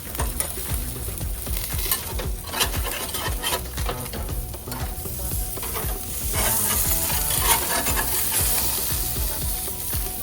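Butterflied Cornish hens sizzling on a hot barbecue grill, their fat and juices crackling and popping. The sizzle gets louder about six and a half seconds in.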